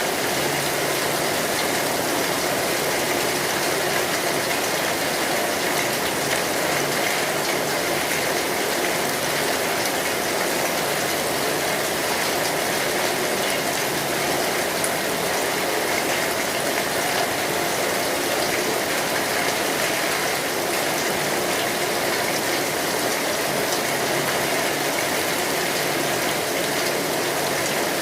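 Steady rain on a metal roof, an even hiss, with a wood fire crackling faintly underneath.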